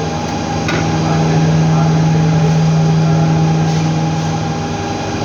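Steady machine hum, one constant low tone with fainter overtones, with a single sharp click about a second in.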